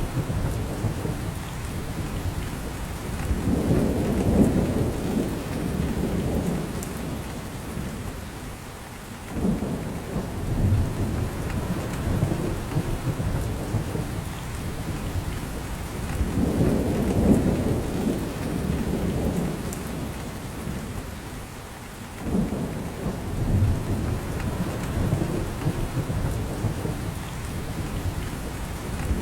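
Steady rain falling on a spruce forest, with low rumbling swells that build and fade every few seconds.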